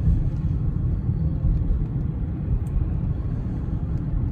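A car driving slowly on snowy roads, heard from inside the cabin: a steady low rumble of engine and tyres.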